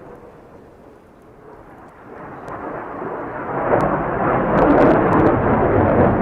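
Aircraft engine noise, a rough rumble that swells over a couple of seconds as the plane comes closer and then stays loud as it passes.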